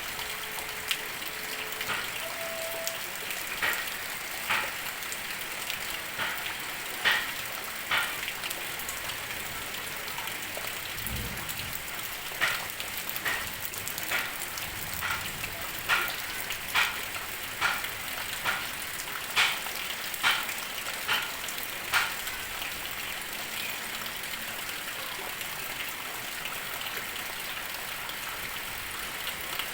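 Heavy rain falling in a steady hiss, with a run of loud separate drops ticking onto a hard surface, thickest in the middle of the stretch and dying away for the last several seconds.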